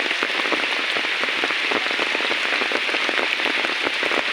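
Heavy rain falling and pattering on surfaces, a steady dense hiss dotted with many individual drop hits.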